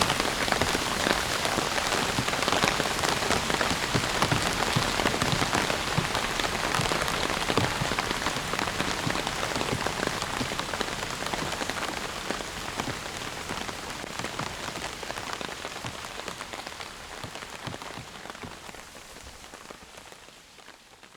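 Heavy rain falling on surfaces: a dense, steady patter of countless drops, which gradually fades away over the last several seconds.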